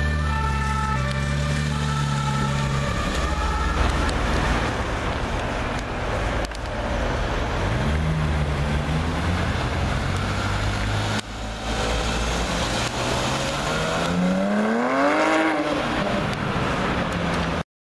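Sports-car engines passing on a street: a deep V8 rumble at first, a short rev about eight seconds in, then a Porsche 991 GT3's naturally aspirated flat-six accelerating hard at full throttle, its pitch climbing steadily for a few seconds before falling away as the car passes. The sound cuts off abruptly just before the end.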